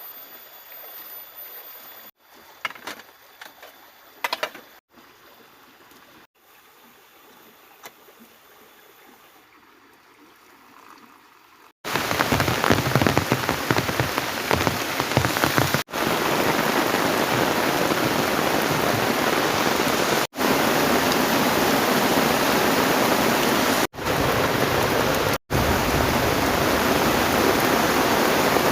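Heavy rain, loud and steady from about twelve seconds in, after a quieter stretch with a few sharp clicks. The sound drops out for an instant several times.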